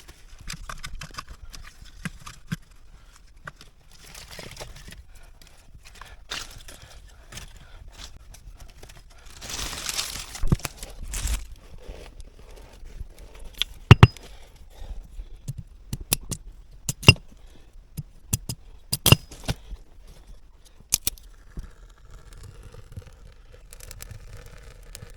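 Rustling, scraping and crinkling handling noise broken by a series of sharp clicks and knocks, the loudest a little past halfway, with a faint steady hum starting near the end.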